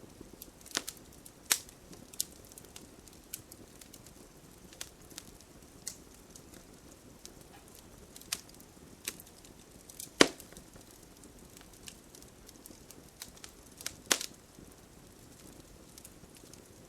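Wood campfire crackling, with irregular sharp pops and snaps over a low steady hiss of the flames; the loudest pop comes about ten seconds in.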